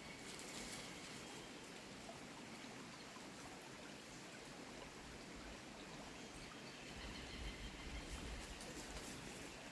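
Faint, steady rush of a small creek flowing, with a few faint high bird calls.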